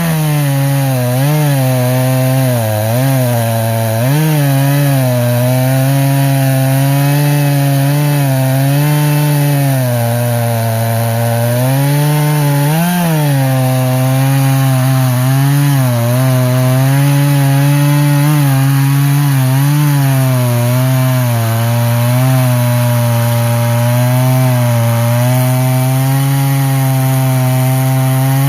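Echo CS-590 two-stroke chainsaw held at high revs under load, cutting through a log. Its pitch wavers, sagging and recovering several times as the chain bites into the wood.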